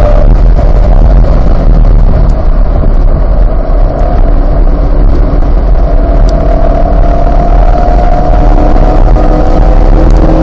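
Chevrolet Corvette C8's 6.2-litre V8 at track speed over a heavy low rumble: the engine tone eases back in the first few seconds, then climbs steadily in pitch through the second half as the car pulls hard through a gear.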